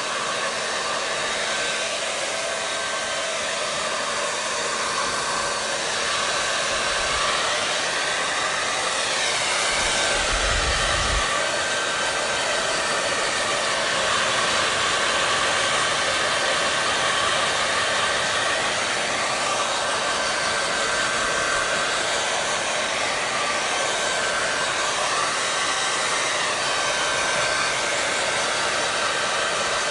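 Hair dryer running steadily: a continuous blowing hiss with a faint whine, its tone wavering slowly at times. A brief low rumble comes about ten seconds in.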